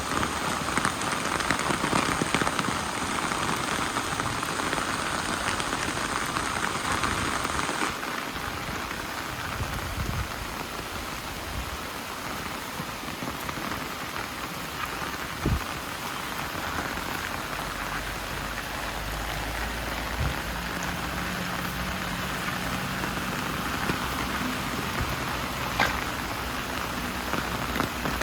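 Steady rain falling on surfaces, an even hiss with a few sharp drip-like taps. A low steady hum joins about two-thirds of the way through.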